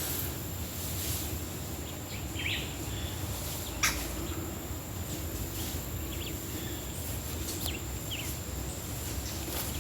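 A few short, high bird calls, scattered a second or so apart, over a low outdoor rumble and a steady high-pitched whine. One sharp click a little under four seconds in.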